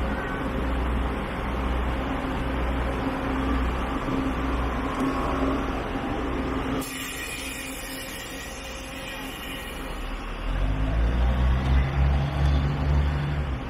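A vehicle's engine running with a steady low rumble. The sound changes abruptly about seven seconds in, and a few seconds later a deeper engine note swells and grows louder.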